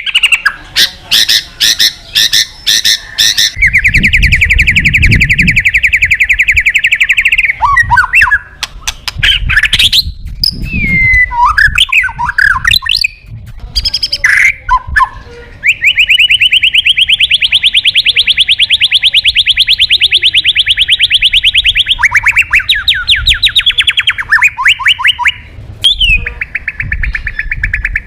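White-rumped shama (murai batu) singing a loud, varied 'gacor' song. Rapid trills are held for several seconds at a time, the longest in the middle, and are broken by sharp whistles, slurred notes and quick runs of notes.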